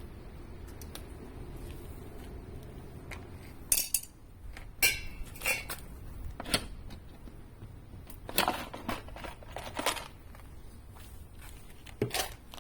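Metal objects being handled: about seven sharp clinks and clatters, scattered from about four seconds in, over a low steady background noise.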